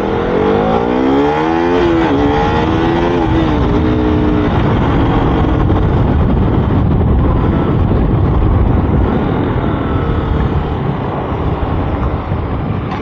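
KTM RC 200's single-cylinder engine accelerating, its pitch rising, dropping about two seconds in at a gear change and rising again. After about five seconds wind and road noise at speed cover the engine.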